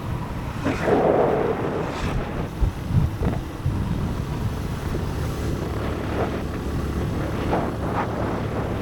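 Motorcycle running steadily on the road, with wind buffeting the microphone; a louder burst of noise about a second in.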